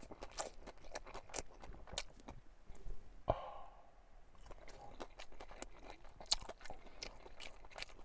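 Close-up mouth sounds of a man chewing a sandwich: soft wet smacks and clicks throughout, with one breathy exhale about three seconds in.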